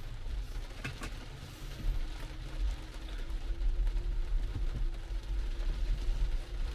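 Heavy rain on an electric car, heard from inside the cabin as a steady low rumble and hiss while the car is slowly manoeuvred. Two sharp clicks about a second in, and a faint steady hum from about a second and a half in.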